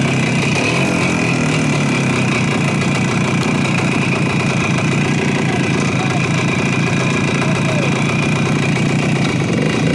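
Motorcycle engine running steadily while riding, its pitch dipping and rising slightly around the first second.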